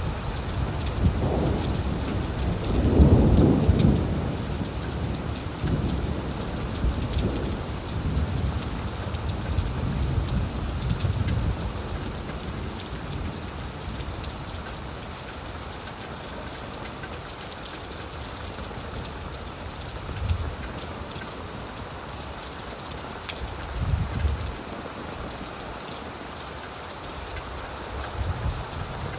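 Heavy rain drumming steadily on an old tin roof, with a long rolling peal of thunder that peaks a few seconds in and dies away, then a few shorter low rumbles of thunder near the end.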